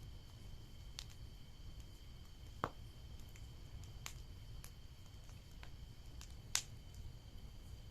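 Bonfire crackling: scattered sharp pops from burning wood at irregular intervals, two louder ones about two and a half and six and a half seconds in, over a steady low rumble.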